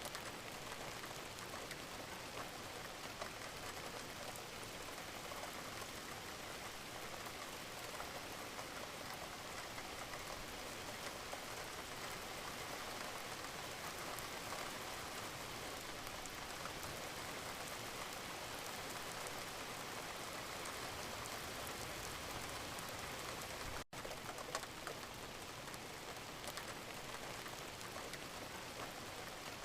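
Steady rain falling: an even hiss with scattered tiny drop ticks. The sound cuts out for a split second late on, then carries on as before.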